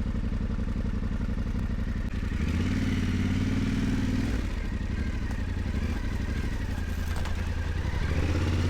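Yamaha Ténéré 700's parallel-twin engine running as the bike is ridden, opening up about two seconds in, easing off around four seconds, and pulling harder again near the end.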